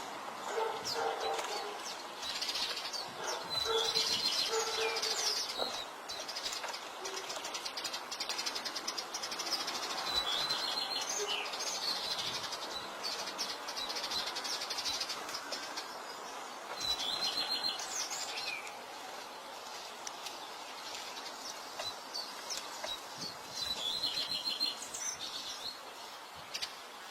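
A small bird singing a short, high chirping phrase four times, several seconds apart, over steady outdoor background noise.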